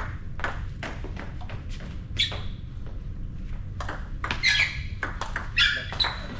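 Table tennis rally: the ball clicking rapidly off bats and table, with shoes squeaking on the hall floor a few times, loudest in the second half.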